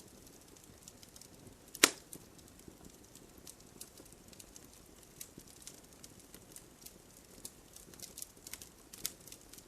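Wood fire crackling in a fireplace: scattered small sharp crackles, with one loud pop about two seconds in.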